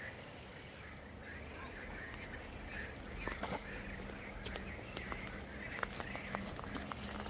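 Birds chirping, short calls repeating every fraction of a second, with scattered light clicks and knocks in the second half.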